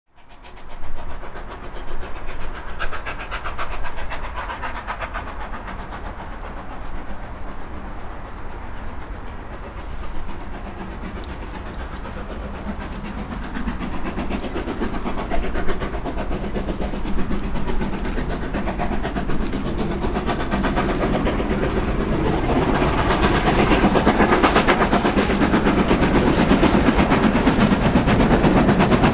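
Steam-hauled train running on the rails, a steady rumble with fine rapid wheel clatter that grows louder over the last several seconds.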